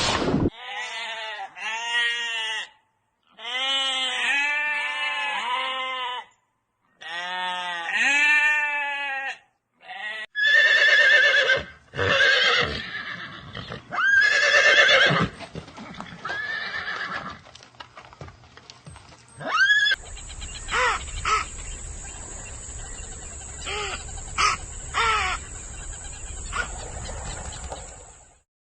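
A run of different farm-animal calls, one recording after another, with horse whinnies among them.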